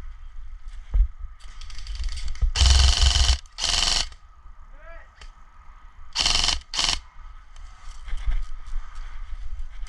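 Airsoft guns firing four quick full-auto bursts, each a rapid rattle of shots: two bursts about two and a half seconds in and two more about six seconds in, the first the longest at under a second.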